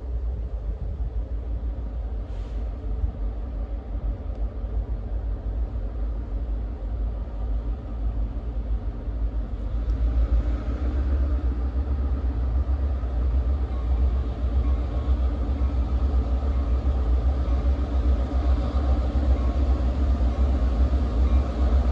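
Diesel locomotives of an approaching train rumbling low and steady, growing gradually louder.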